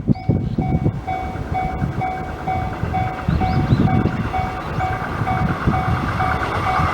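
A Japanese railway level-crossing bell ringing its steady repeating ding while a train runs by. The rumble of the train sits under the bell, and the wheel and rail noise grows louder near the end as it passes closer.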